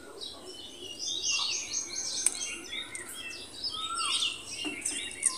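Small birds chirping, a busy run of short, quick twittering notes, with a single sharp click a little over two seconds in.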